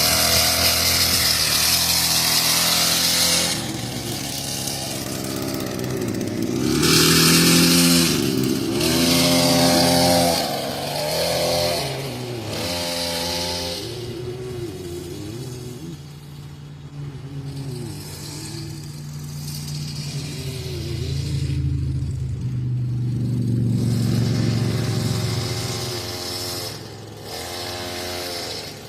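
Dirt bike engine revving up and down as it is ridden, its pitch rising and falling and the sound swelling and fading as the bike comes near and moves away.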